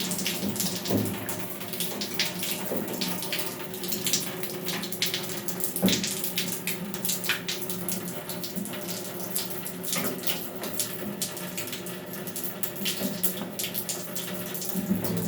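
Water running from a tap into a sink, with scattered sharp clicks and knocks throughout.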